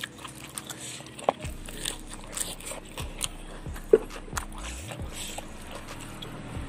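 Close chewing and crunching of raw young mango leaves, with many small wet mouth clicks. Two sharper clicks stand out, about a second in and about four seconds in, the second the loudest.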